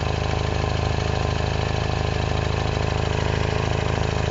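R56 Mini Cooper S's 1.6-litre turbocharged four-cylinder engine idling steadily. The exhaust is leaking at a V-band clamp that isn't seated right.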